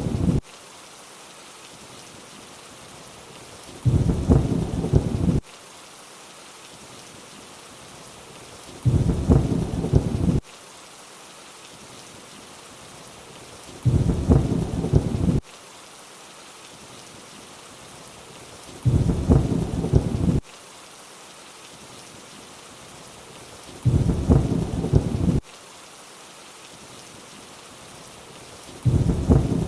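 Steady rainfall hiss with a short, loud, low rumble of thunder about every five seconds. The rumbles start and stop abruptly and repeat at even spacing, six times over, as in a looped thunder sample.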